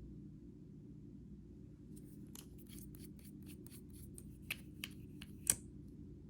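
A run of sharp clicks or snips starting about two seconds in, a few a second, the loudest two near the end.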